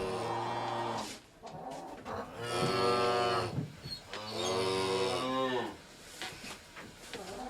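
Cow mooing: three calls, a short one at the start and then two longer, drawn-out moos that rise and fall in pitch.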